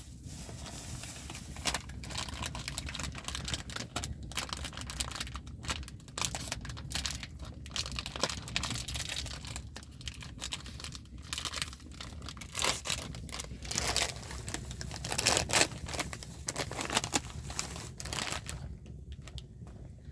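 Irregular crinkling and rustling of something being handled, in uneven bursts, loudest about three-quarters of the way through.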